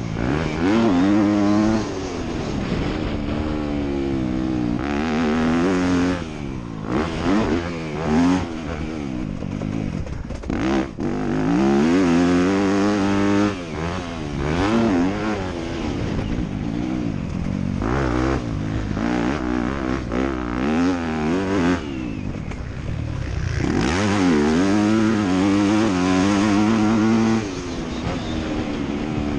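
Motocross dirt bike engine revving hard, its pitch climbing and dropping again and again with the throttle.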